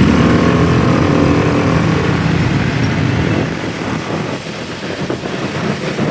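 Motorcycle taxi engine running with street traffic around it, heard from the pillion seat. The engine note is strong for the first couple of seconds, then eases off into quieter road and wind noise.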